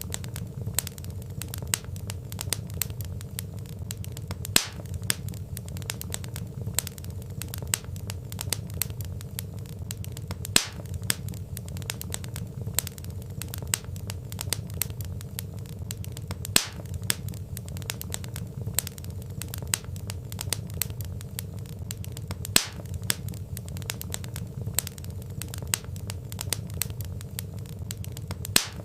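Wood fire crackling steadily, many small snaps over a low rumble, with a louder pop about every six seconds.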